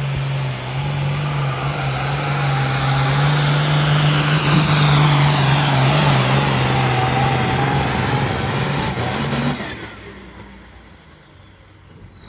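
Hot Farm class pulling tractor's diesel engine at full throttle during a pull, running loud and steady for about nine and a half seconds, then cut off suddenly as the run ends.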